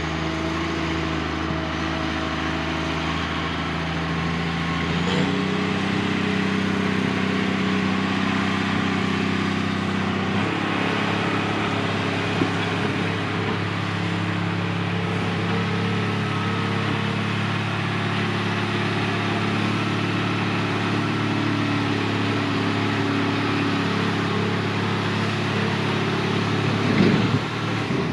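Diesel engine of heavy earthmoving machinery running steadily, its note changing a little with load about five and ten seconds in, with a brief louder surge near the end.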